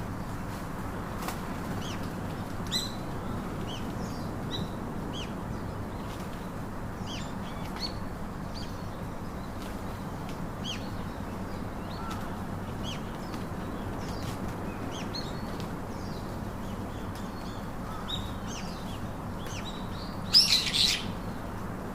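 Small songbirds chirping in short, scattered calls over a steady low background noise, with a louder burst of rapid twittering near the end.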